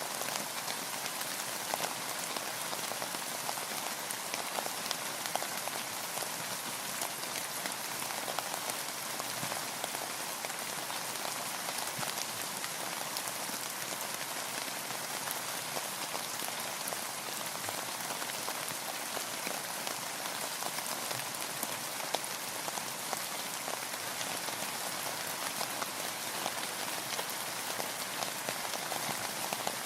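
Steady rain falling on a boat, with dense, close patter of individual drops over an even hiss.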